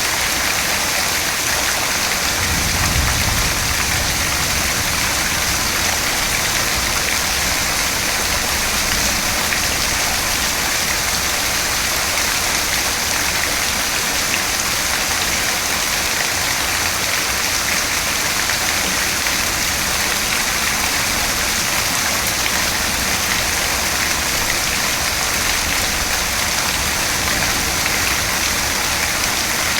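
Steady, heavy rain falling, an even hiss of drops with a brief low rumble about three seconds in.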